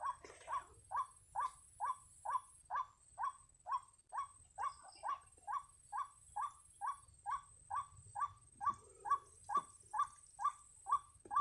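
White-breasted waterhen (ruak-ruak) calling: one note repeated steadily a little over twice a second, cutting off suddenly at the end.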